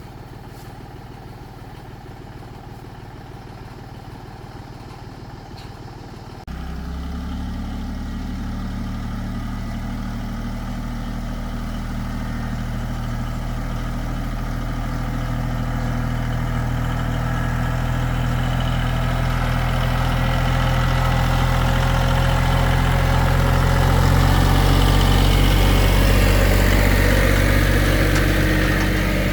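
Tractor engine running with a steady low note. It jumps suddenly louder about six seconds in, then slowly grows louder as it works, easing off a little near the end.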